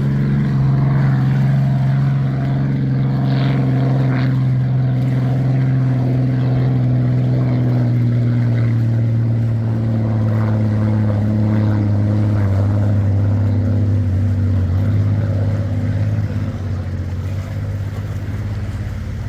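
Straight-piped 27-litre Rolls-Royce Merlin V12 of a vintage unlimited hydroplane running steadily under power. Its pitch eases down gradually through the second half and it gets a little quieter near the end.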